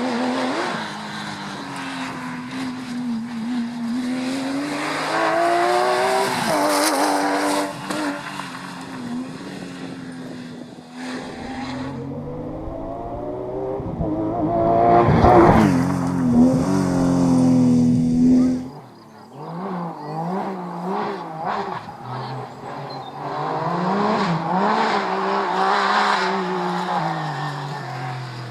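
Rally car engines at full effort on a stage, revving up and down repeatedly as the cars brake, shift and accelerate. The loudest pass comes about halfway through; about two-thirds of the way in the sound cuts abruptly to another car with quicker, choppier rises and falls in revs.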